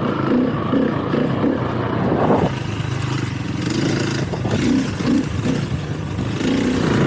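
Dirt bike engine running while riding, its pitch rising and falling with the throttle. Wind and track noise come in a few seconds in.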